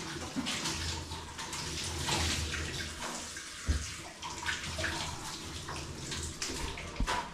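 Water running and splashing, uneven, with a sharp knock about three and a half seconds in and another near the end.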